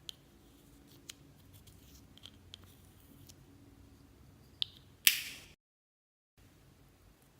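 Hands working slime: scattered small clicks and soft squishes. About five seconds in there is a loud, sharp crackling pop that dies away within half a second, and then the sound drops out completely for under a second before the faint background returns.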